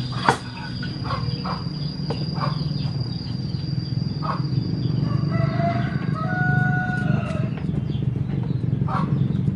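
A rooster crowing once, a drawn-out call about halfway through, over a steady low hum and scattered sharp taps.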